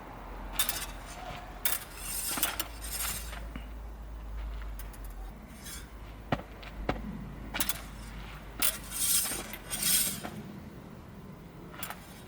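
Fencing blades clicking and clinking against each other in short, scattered contacts, with shoes scuffing and sliding on the floor during a smallsword drill.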